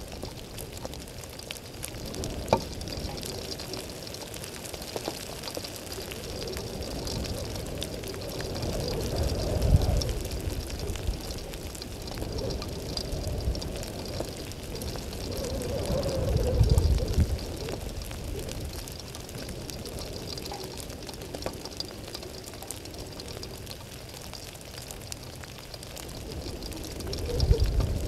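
Steady rain falling, with close raindrops ticking near the microphone. The rain noise swells three times into a louder low rumble, about a third of the way in, past the middle, and near the end.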